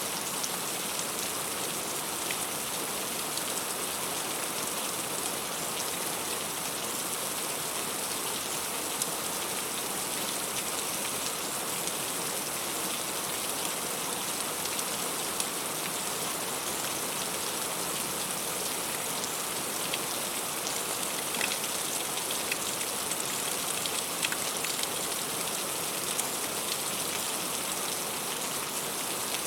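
Heavy rain falling steadily: a constant dense hiss with scattered individual drop ticks.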